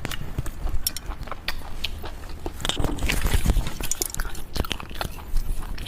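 A person biting and chewing raw hairtail sashimi close to the microphone, with many irregular wet clicks and crunches from the mouth.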